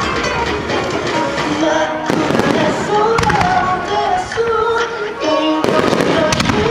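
Fireworks crackling and banging, several sharp reports about two, three and five and a half seconds in, over music with a held melody.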